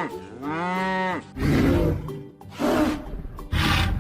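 Cow moo sound effect: one pitched call that rises and falls, followed by three short rough noisy bursts about a second apart.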